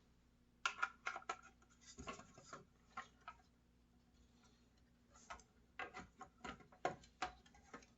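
Faint, irregular clicks and light rubbing as the trigger and wiring of a router are handled and fitted into its plastic housing.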